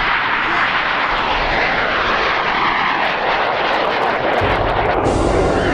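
Aero L-29 Delfín jet trainer's single turbojet at takeoff power, a loud steady jet noise. Its pitch sweeps through the middle, and the sound turns deeper about four and a half seconds in.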